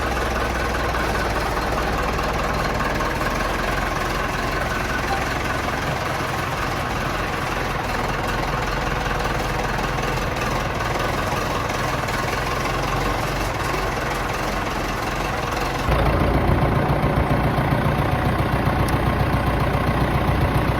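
Nuffield 10/60 tractor's four-cylinder diesel engine idling steadily. About sixteen seconds in it suddenly gets louder, with a heavier low rumble.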